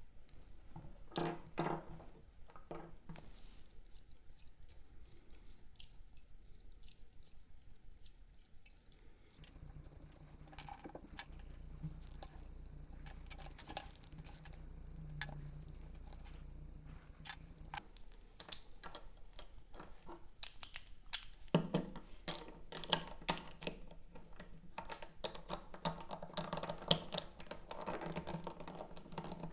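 Irregular small clicks and taps of hard plastic cube pieces being handled and worked on, growing busier and louder in the last third. A faint low hum runs under the middle stretch.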